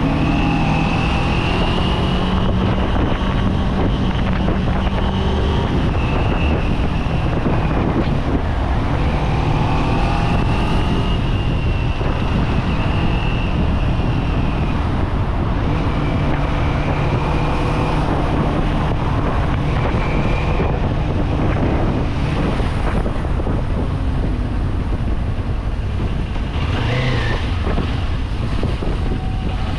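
Kawasaki Z400 parallel-twin engine running under way, its pitch rising and falling a little with the throttle, with wind buffeting the microphone.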